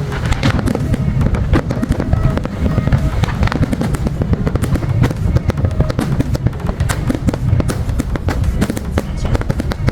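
Fireworks display: a dense, continuous barrage of rapid bangs and crackles over a low rumble.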